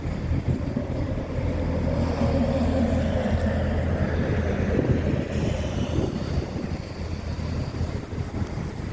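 Scania truck engine running, a steady low hum, with a swell of louder higher-pitched noise in the middle that then eases off.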